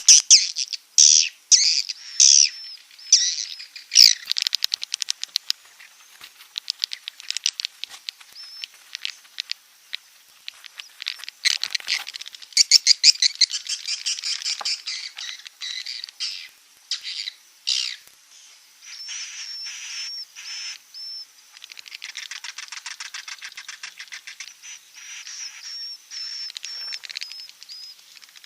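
Swiftlets calling in bouts of rapid chittering trills and clicky twitters, with short repeated chirps, the kind of call played as a lure to draw swiftlets in to nest.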